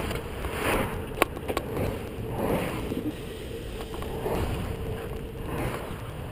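Wind rushing over an action-camera microphone mixed with bicycle tyre noise while riding, swelling and easing roughly once a second, with two sharp clicks a little over a second in.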